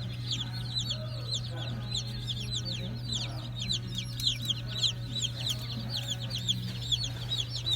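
Many chicks peeping at once: a dense, unbroken stream of short high chirps from several birds, over a steady low hum.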